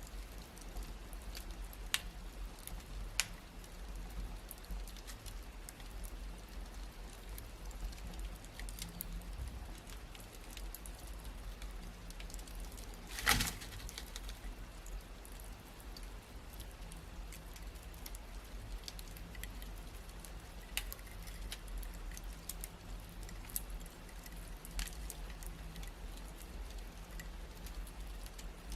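Wood fire crackling in a fireplace: scattered sharp pops and snaps over a soft steady hiss, with one louder snap about halfway through.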